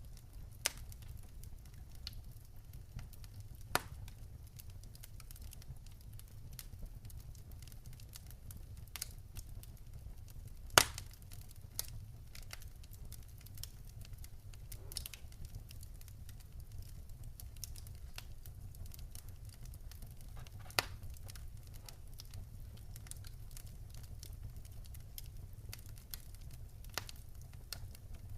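Wood fire burning in a fireplace, with a steady low rumble under scattered sharp crackles and pops; the loudest pop comes about eleven seconds in.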